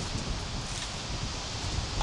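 Outdoor rustling with wind noise on the microphone, an uneven low rumble under an even hiss.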